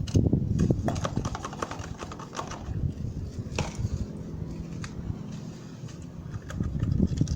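Irregular light knocks and scrapes of wet cement being poured and worked through a plastic PET-bottle funnel into PVC-pipe molds.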